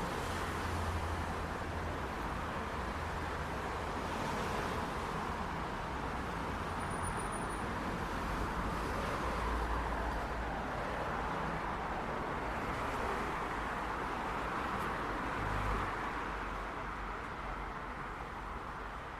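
City street traffic ambience: a steady wash of passing car engine and tyre noise, with low rumbles swelling as heavier vehicles go by. A brief faint high tone sounds about seven seconds in.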